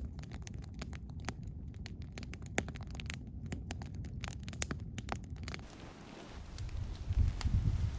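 Campfire crackling with frequent sharp pops over a low rumble. After about five and a half seconds the sound changes abruptly to a quieter hiss, and near the end low gusts of wind buffet the microphone.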